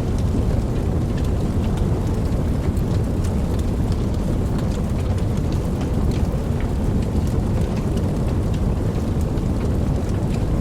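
Steady rain, an even unbroken wash that is heaviest in the deep end, with scattered sharp drop ticks on top.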